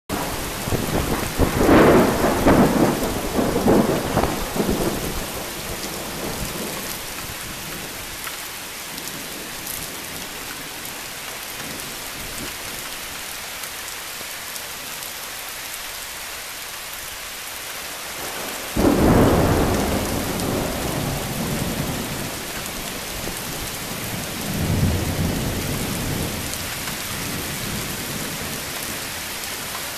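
Steady rain with rolls of thunder. A long rumble comes in the first few seconds; about two-thirds of the way through a sudden loud clap breaks and rolls on for several seconds, followed a few seconds later by another lower rumble.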